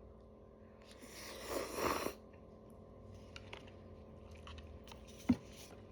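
A person eating cup noodles: a loud, hissy mouthful about a second in lasting about a second, then soft chewing with small clicks and one sharp click near the end.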